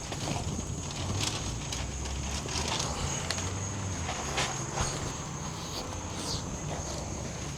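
Steady high-pitched drone of insects, with scattered light clicks and footsteps over a low rumble.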